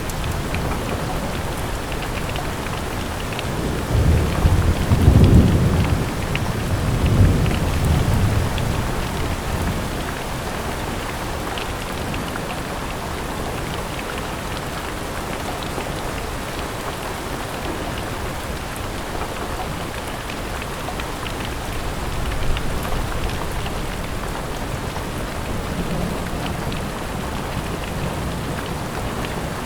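Steady fine rain falling, with low thunder rumbling about four seconds in for several seconds. Fainter rumbles follow about two-thirds of the way through.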